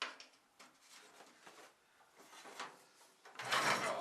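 Things being shifted and knocked about: a clunk at the start, scattered light rattles and knocks, then a louder scrape lasting about half a second near the end.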